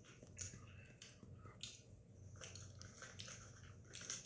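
Faint chewing of crunchy Pringles Mingles snacks: soft, irregular crunches and mouth clicks.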